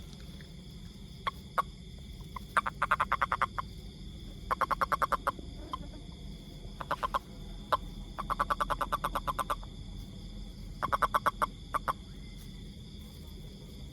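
Toad calling: about six bursts of rapid, evenly spaced clicking pulses, each burst half a second to a second long, with a couple of single clicks before the first.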